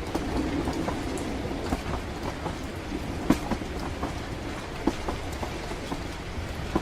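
Steady low rumble of a train in motion, dotted with irregular sharp clicks and taps, with rain pattering under it.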